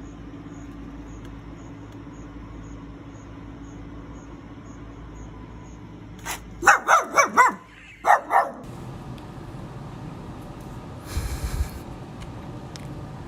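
A dog barking: a quick run of about six loud barks around the middle, over a steady low hum.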